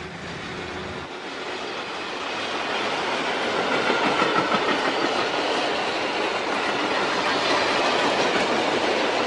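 A long freight train passing through at speed, its wagon wheels clattering over the rails. It grows louder over the first few seconds, then runs on steadily as wagon after wagon goes by.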